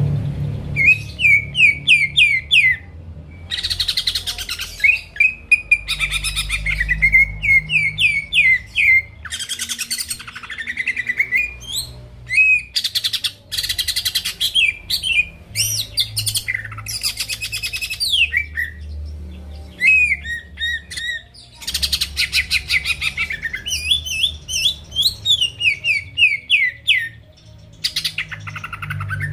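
Cucak ijo (green leafbird) singing in full voice: quick runs of sliding whistled notes alternating with harsh, buzzy chattering phrases, almost without pause.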